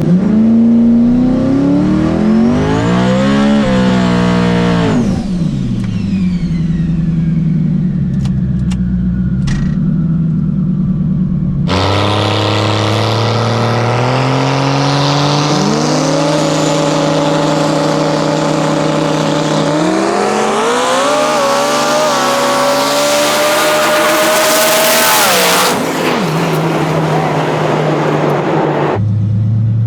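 Twin-turbo 5.0 Coyote V8 in a drag-racing Ford F-150, revving up and falling back, then, after a cut, running a long full-throttle pass. Its pitch climbs and steps at each upshift, with a high whine rising over it. The throttle is lifted near the end and the engine drops to a steady idle.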